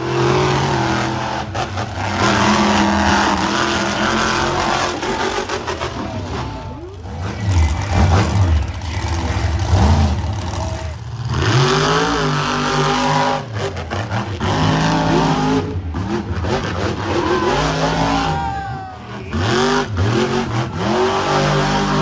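Monster truck engines revving hard, the pitch climbing and falling again and again, with a few short lulls between bursts of throttle.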